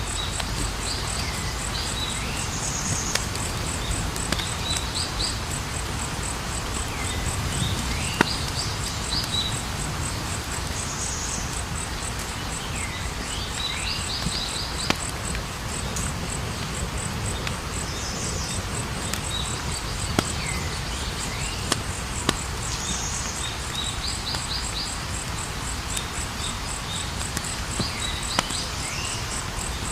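Campfire burning with a steady low rush and occasional sharp crackles and pops, under a steady high cricket trill and a chirping call that repeats every few seconds.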